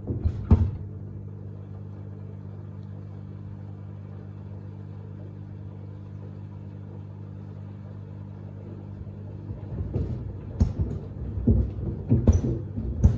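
Samsung WD70T4047CE washing machine running with a steady low hum, then, from about ten seconds in, sneakers knocking and thudding against the tumbling drum.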